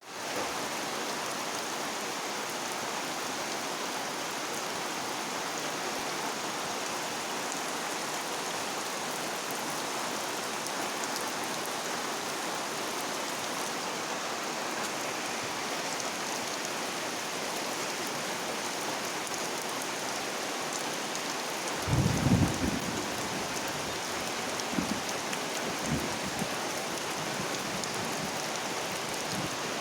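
Steady rain falling. About three quarters through comes a louder low thump lasting about a second, followed by a few fainter low knocks.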